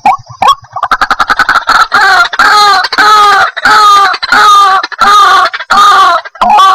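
White-breasted waterhen (ruak-ruak) calling: a run of quick clicking notes that speeds up, then loud, repeated croaking calls about twice a second, each dipping slightly in pitch.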